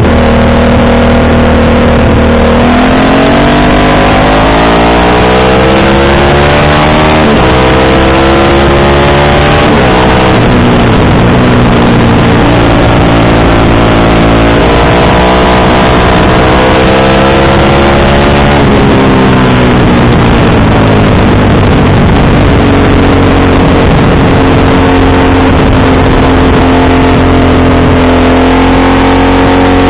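Motorcycle engine pulling through the gears: its pitch climbs and drops back several times as it accelerates and shifts, then holds steady at cruising speed for the last third. Underneath is a loud, steady rush of wind noise.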